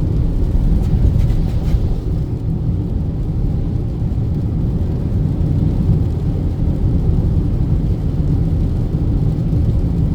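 Car driving on the highway, a steady low road and engine rumble heard from inside the cabin.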